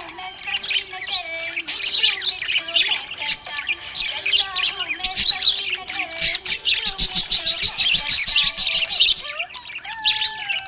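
A flock of budgerigars chirping and warbling continuously, a dense mix of short chirps and sliding notes, with a fast rapid-fire run of chirps about two-thirds of the way through.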